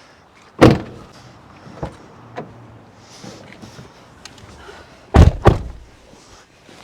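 Suzuki Jimny's doors slamming shut: one slam, then two more in quick succession about five seconds later.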